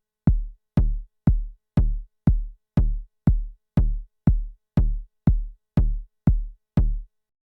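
Arturia DrumBrute Impact analog kick drum played by its step sequencer in a steady four-on-the-floor pattern, about two hits a second, each hit dropping quickly in pitch to a low boom. The kicks on steps 5 and 13 carry the Color feature's altered character.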